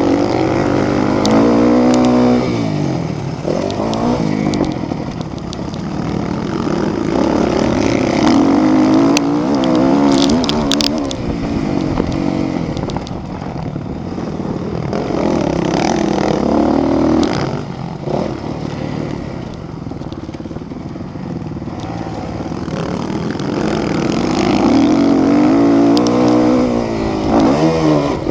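Motocross bikes' engines revving hard, rising and falling in pitch again and again as bikes go by and shift gears.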